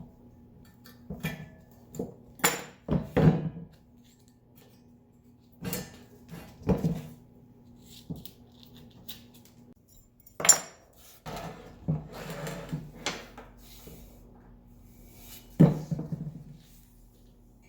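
Metal bike parts and tools clinking and knocking as they are handled, about eight separate strikes spaced irregularly over a faint steady low hum.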